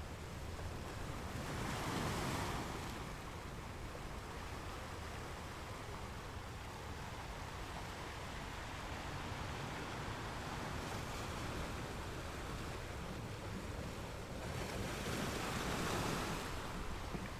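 Sea waves washing onto a shore: a steady rushing hiss that swells as a wave breaks about two seconds in and again near the end.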